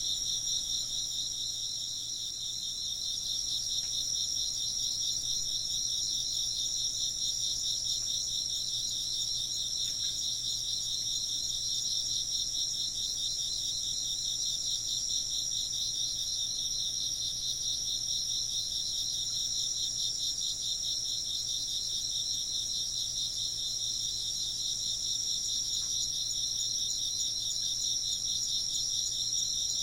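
A dense chorus of chirping insects, crickets among them, with several high-pitched, rapidly pulsing trills layered together and keeping on steadily.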